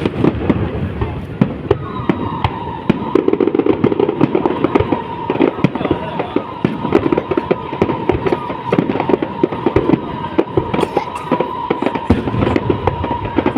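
Aerial fireworks going off in a rapid, dense series of bangs and crackles. A steady high tone runs underneath from about two seconds in.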